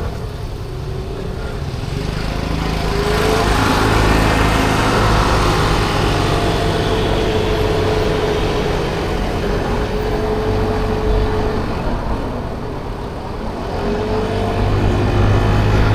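A 50cc scooter's small engine running while riding in traffic, its pitch climbing as it speeds up a few seconds in and again near the end, over steady road and wind noise.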